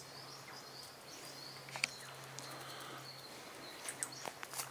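Quiet outdoor ambience with a few short, high bird chirps, about two seconds in and again near the end.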